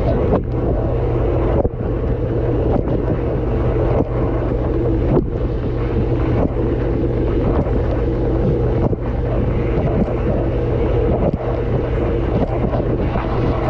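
Dishwasher running mid-cycle, heard from inside the tub: water from the spray arms pounding the dishes and the camera housing over the steady hum of the circulation pump. Brief dips in the spray noise come every second or so.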